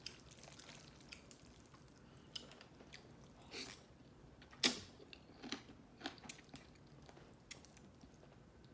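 Close-miked eating sounds: faint chewing with scattered short wet clicks and smacks, the loudest a little under five seconds in.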